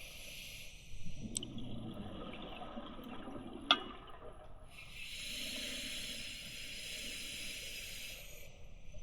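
Scuba regulator breathing underwater: a burst of exhaled bubbles gurgling for a few seconds, then the steady hiss of an inhalation through the demand valve. A single sharp click about halfway through.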